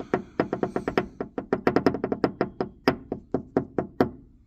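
Fast, even tapping on a Yamaha 150 outboard fuel injector, about six sharp knocks a second, to shake out the moisture left after blowing it through with air. The tapping stops about four seconds in.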